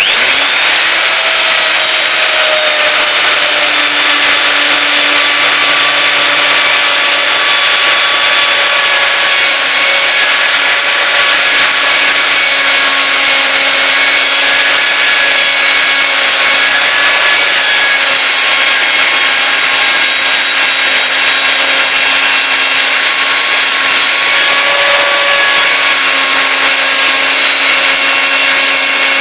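Hitachi TR12 plunge router with a 1-inch straight bit running at full speed, cutting a channel for tram rails. It makes a loud, steady whine over a harsh cutting noise that starts suddenly and holds throughout.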